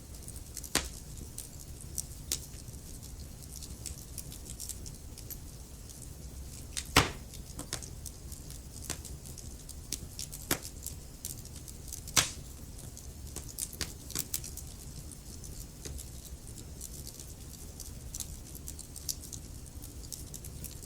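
Wood fire crackling in a fireplace: scattered sharp pops and snaps over a low steady rumble, with two louder pops about 7 and 12 seconds in.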